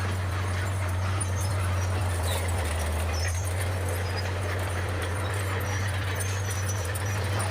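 Bulldozer's diesel engine running steadily, a low even hum that holds without change.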